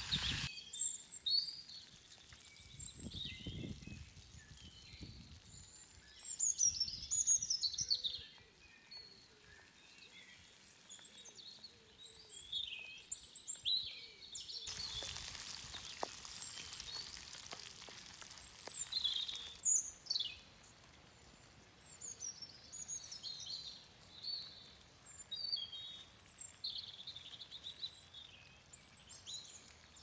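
Wild birds chirping and whistling in many short calls. About halfway through, sauce sizzles and bubbles in a pot over a campfire for a few seconds, then stops abruptly.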